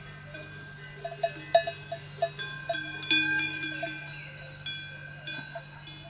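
A run of short, bell-like ringing notes in quick succession, strongest about one to three seconds in, over sustained tones and a steady low hum.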